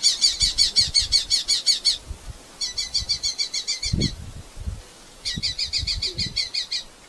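Red-footed falcon giving rapid strings of shrill, repeated calls at about seven a second, in three bouts with short breaks between them. Soft low knocks sound underneath, loudest about four seconds in.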